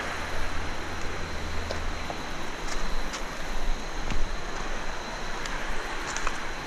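Light footsteps on a trail over a steady rushing outdoor noise with a low rumble, and a few faint clicks scattered through.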